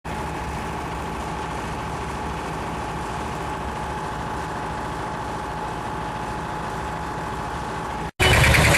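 Classic tractor engine running steadily at a constant speed. About eight seconds in it cuts off abruptly and a louder sound takes over.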